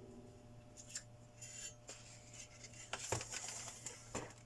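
Faint clinks, clicks and a short scrape of small metal parts and tools being handled on a workbench during a repair, with sharp clicks about one, three and four seconds in, over a low steady hum.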